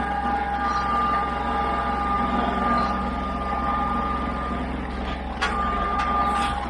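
A steady mechanical hum carrying a high, constant whine, with a sharp click about five and a half seconds in.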